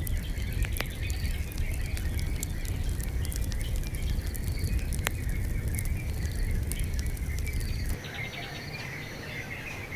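Fireplace wood fire crackling with occasional sharp pops over a low rumble, with insects and birds chirping. About eight seconds in the low rumble drops away, leaving mainly the chirping.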